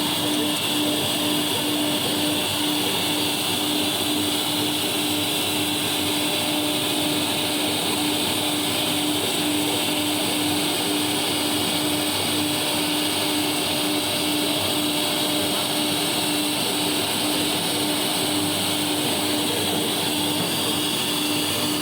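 Three-axis CNC router engraving while its vacuum dust collector runs: a steady machine drone with one constant hum through it.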